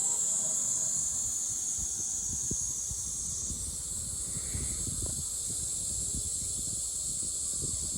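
Steady high-pitched drone of insects, with scattered faint low knocks and rustles.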